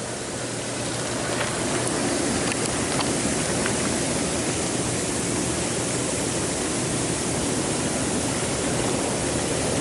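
Hot tub jets churning the water: a steady rushing hiss of bubbling water that builds slightly over the first couple of seconds, then holds.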